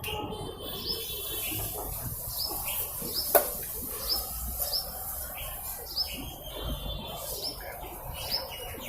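A small bird chirping repeatedly, short high chirps every half second to a second, with a single sharp click about three and a half seconds in.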